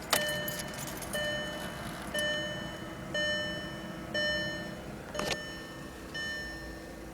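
Volkswagen City Golf's dashboard warning chime ringing over and over, about once a second, with the engine still off. There is a single sharp click about five seconds in.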